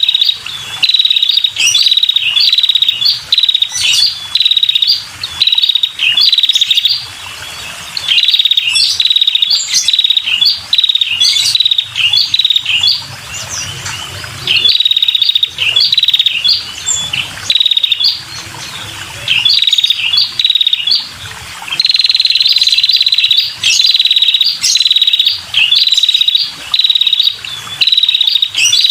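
Female red-headed prenjak (prinia) calling: short, rapid, high trills repeated about once a second, with a few brief pauses. A lure call used to draw in male prenjaks.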